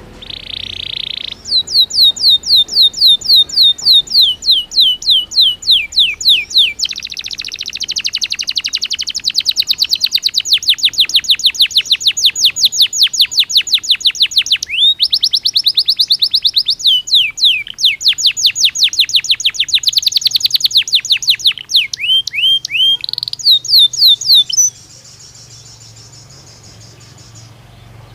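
Belgian canary singing a long song: runs of quick, repeated down-sweeping notes alternate with fast rolling trills. The song stops about 25 seconds in.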